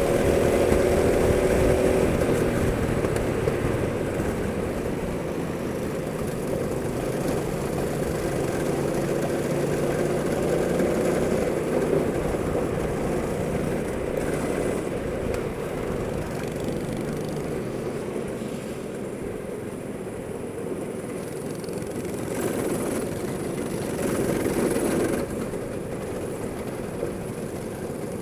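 Go-kart engine running hard on track, its pitch rising and falling as the kart accelerates and slows.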